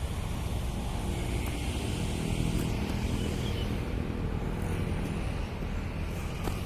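Urban road traffic: a motor vehicle's engine passes close by over a steady rumble of street noise.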